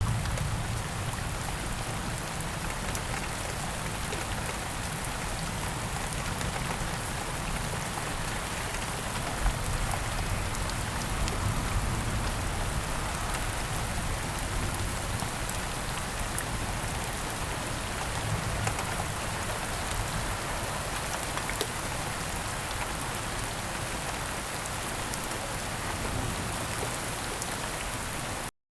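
Steady rain falling, an even hiss with many small drop ticks, starting and cutting off abruptly.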